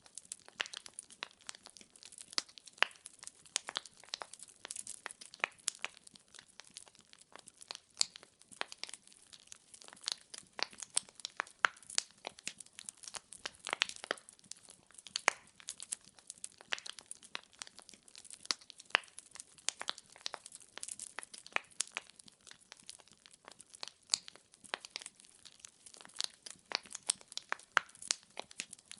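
Wood fire burning, the logs crackling with irregular sharp pops and snaps, several a second, over a faint soft hiss.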